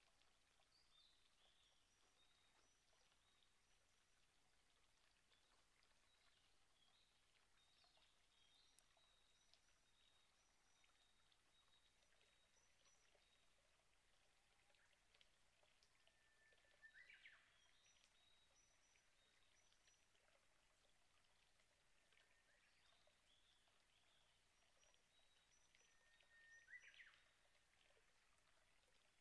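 Near silence: faint woodland ambience with distant birds singing, thin high notes repeating throughout and two slightly louder calls, one about halfway through and one near the end.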